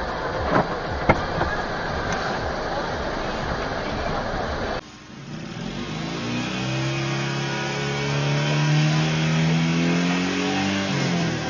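A steady rushing noise with two or three sharp knocks about half a second to a second and a half in, which cuts off suddenly about five seconds in. Then a car engine accelerating, its pitch climbing slowly and then falling away near the end.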